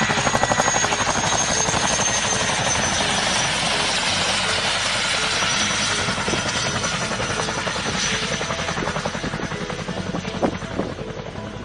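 Helicopter rotor beating fast, with a high turbine whine that dips slightly in pitch; both are loudest at first and slowly fade. A few sharp knocks come near the end.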